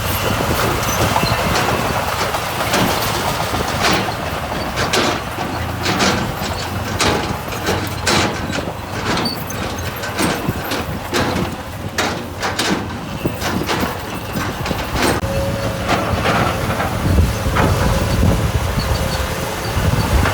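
Diesel engine of heavy earthmoving equipment running steadily, with many short knocks and clanks of metal and stone on top.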